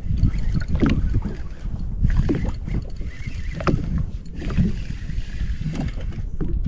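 Wind rumbling on the microphone, with small waves slapping irregularly against the hull of a drifting jetski.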